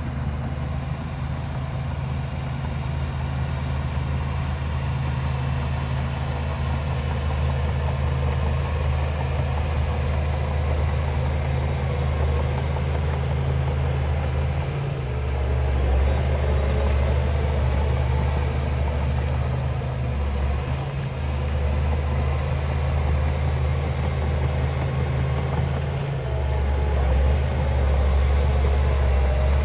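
Heavy construction machine's diesel engine running steadily with a low drone. The drone shifts a few times, about halfway through and again near the end.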